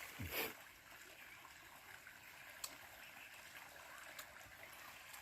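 Faint, steady rushing hiss of running water, like a stream. A brief falling whoosh comes just after the start, and a single faint click follows about two and a half seconds in.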